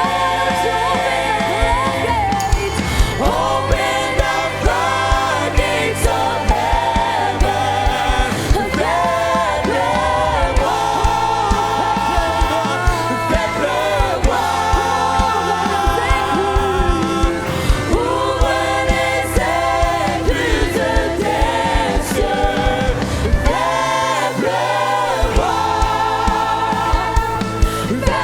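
Gospel worship music: a choir singing with a live band, bass and drums keeping a steady beat. The bass drops out briefly near the end.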